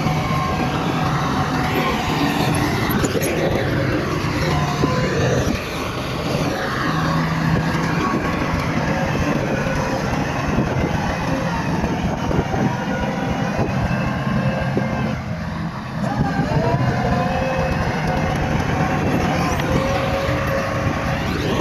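Bulldozer's diesel engine working under load, its pitch rising and falling, with short dips in level about five and fifteen seconds in.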